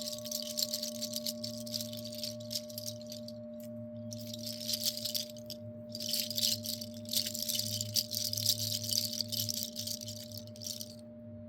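A hand rattle shaken in three long stretches, with short breaks about three and a half and six seconds in, stopping shortly before the end. Under it, a steady sustained drone of several held tones.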